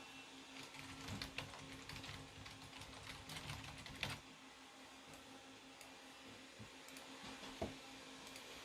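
Typing on a computer keyboard: a run of quick, faint key clicks for a few seconds, a sharper click, then a single click near the end, over a faint steady hum.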